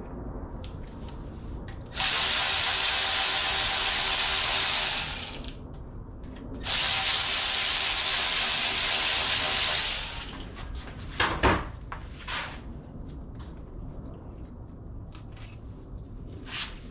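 A power tool run in two steady bursts of about three seconds each, with a sharp knock a little later.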